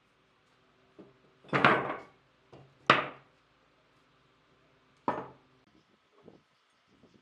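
Pieces of wood knocking together and being set down: a short clatter about a second and a half in, then two sharp knocks, with light tapping between.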